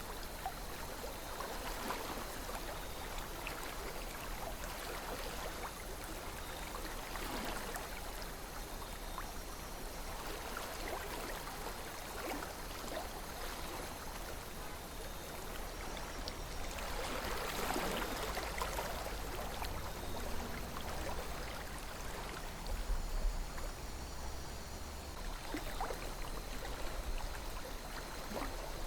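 A calm river flowing: a steady rush of water with small gurgles and trickles, swelling briefly a little past halfway.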